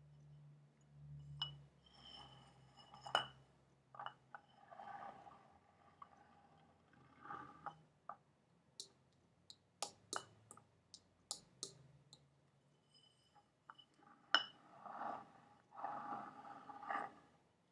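Fingernail taps and clicks on a hard object, some leaving a short glassy ring, between softer rubbing and handling sounds. A quick run of sharp, light clicks comes about halfway through.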